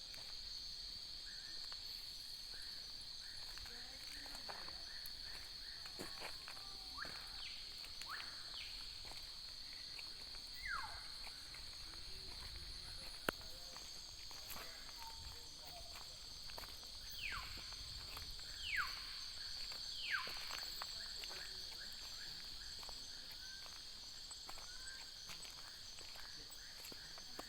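Common hill myna giving loud whistles that slide steeply down in pitch, several times, over a steady high-pitched drone of insects.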